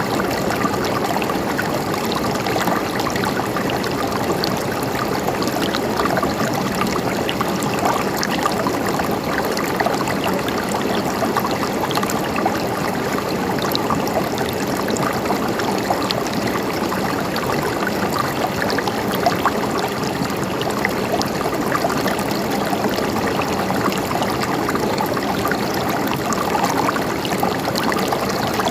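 Running water gurgling and trickling steadily, with no let-up.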